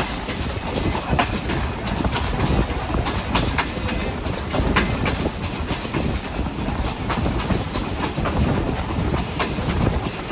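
Moving passenger train running along the track: a steady rumble with irregular clacks of the wheels over the rails.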